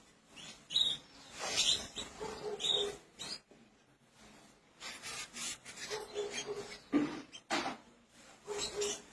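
Pet canaries giving short, quick chirps now and then, among irregular scratching and rustling sounds.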